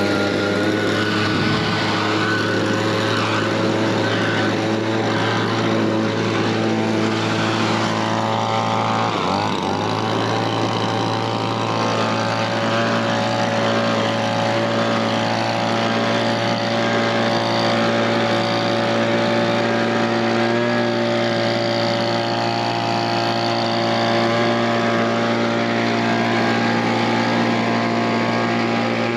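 An engine running steadily at constant speed, with a brief change in pitch about nine seconds in.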